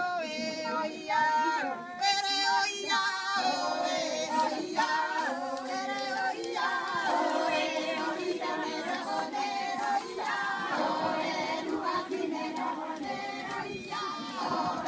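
A group of women singing together unaccompanied, several voices holding and gliding between notes.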